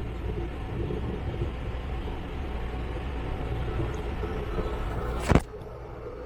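Steady low rumble with hiss, ended by a single sharp click about five seconds in, after which it is quieter.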